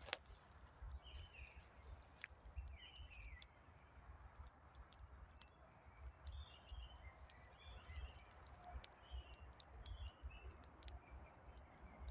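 Faint wood campfire crackling, with many sharp pops scattered through. Small birds chirp briefly now and then, over a faint low rumble.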